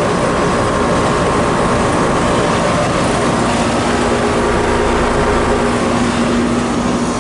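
Outdoor air-conditioner condensing units running: a steady rush of fan air with a low, even hum that grows clearer about halfway through.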